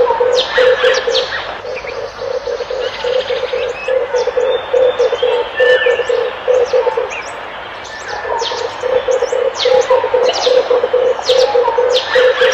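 Red collared dove cooing: a fast, even run of low coo notes, about four or five a second, breaking off about seven seconds in and starting again a second or so later. Small birds chirp sharply over it.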